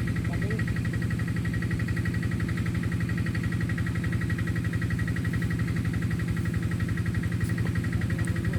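A small engine running steadily at constant speed, with a fast, even throb.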